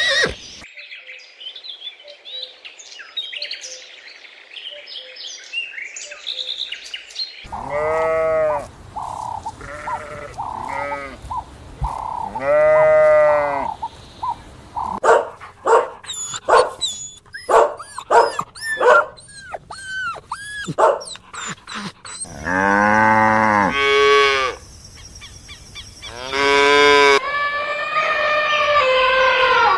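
Farm animal calls, mainly cattle mooing in a run of long drawn-out calls, with short, quick, higher calls in between. The first several seconds hold only faint high chirping.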